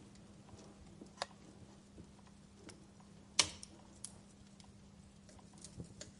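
Fireplace crackling: scattered sharp pops and snaps at irregular intervals over a faint steady hum, the loudest pop a little past halfway.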